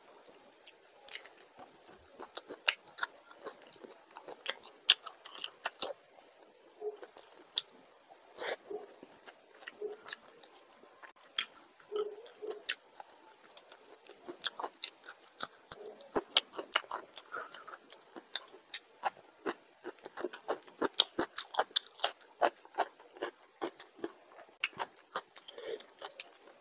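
A person eating rice and prawn fish curry by hand close to the microphone: wet chewing and mouth smacks, with many sharp irregular clicks and the squish of rice being mixed between the fingers.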